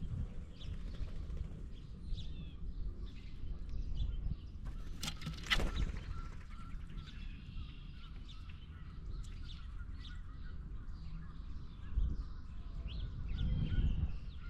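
Birds calling in short scattered calls over a steady low rumble, with one sharp knock about five and a half seconds in.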